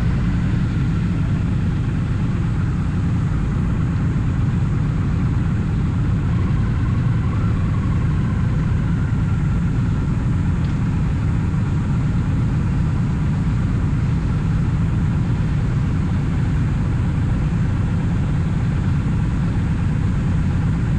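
Triumph Bonneville T100's parallel-twin engine running steadily at a constant pace, heard as an even low rumble under a haze of road and wind noise.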